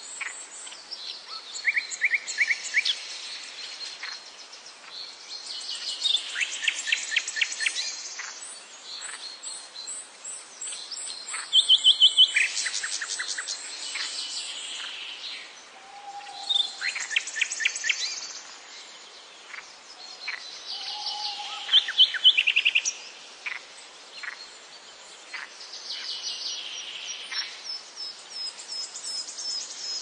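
Songbirds singing: bursts of quick repeated chirps and trills every few seconds, over a steady high hiss.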